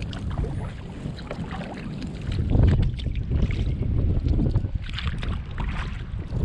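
Kayak paddle strokes splashing and dripping in the water, with wind buffeting the camera microphone; the wind rumble grows louder about two and a half seconds in.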